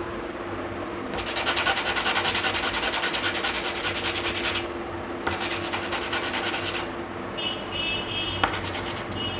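Emery sheet rubbed quickly back and forth over the spring-side metal contact of a gas stove lighter, scraping off dirt and rust. There is a long spell of fast strokes, a shorter second spell, then lighter scratching and one sharp click near the end.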